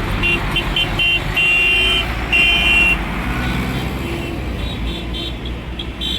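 Tractor engines running with horns sounding over them: a few short toots, two longer held honks in the first three seconds, then a quick run of short beeps near the end.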